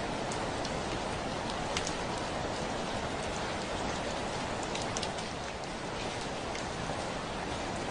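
Steady rain falling, with individual drops ticking sharply on window glass over a continuous patter.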